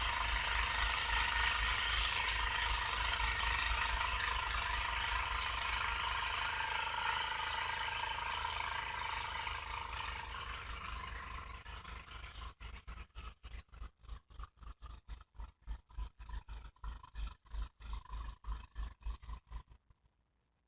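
Ariens snowblower engine running steadily with a rattle. It fades gradually from about halfway through, drops away in choppy snatches and dies out near the end.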